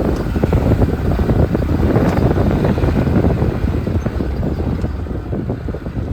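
Lada Niva driving over a rough dirt track: low engine and road rumble with a steady run of knocks and rattles from the body and suspension over bumps.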